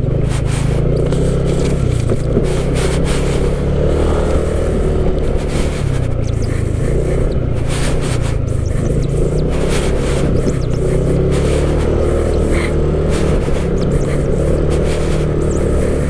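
Motorcycle engine running steadily while riding slowly over a rough road, with frequent knocks and rattles from the bumps.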